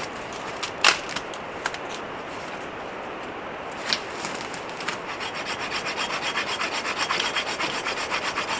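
Small hand saw cutting firewood. After a couple of sharp snaps, rapid, even back-and-forth saw strokes start about five seconds in, over a steady rush of wind.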